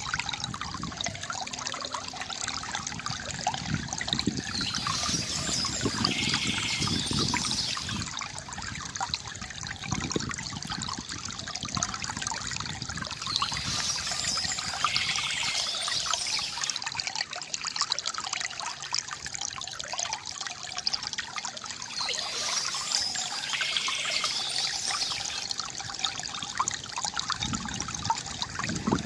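Water trickling and gurgling steadily from a bamboo fountain, swelling brighter about every eight to nine seconds.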